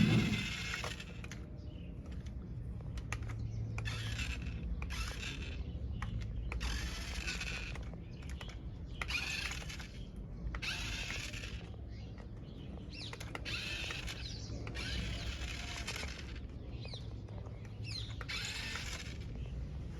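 Small geared electric motor of a toy RC tractor whirring in about nine short spurts, each lasting half a second to a second and a half, as it is driven on and off by remote. A sharp thump at the very start is the loudest sound.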